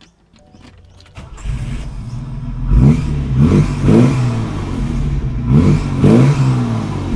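A 1964 Maserati 3500 GT's carburetted straight-six is started, catching about a second in, then settles to a rumbling idle and is blipped five times, a run of three quick revs followed by a pair.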